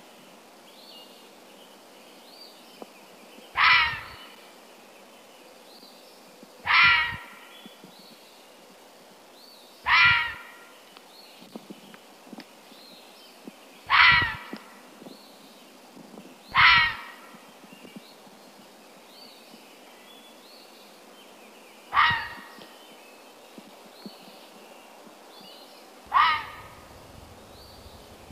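A bird call repeated seven times at intervals of three to five seconds, each call short, loud and falling in pitch, with faint high chirps between.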